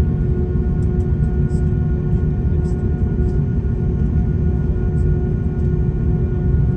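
Cabin noise of an Airbus A340-600 on the ground during engine start and pushback: a steady low rumble with a steady whine on top, consistent with the Rolls-Royce Trent 500 engines and the aircraft's hydraulic pump.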